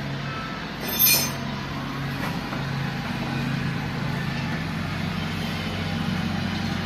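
An engine running steadily with a low hum, and a single sharp metal clink about a second in.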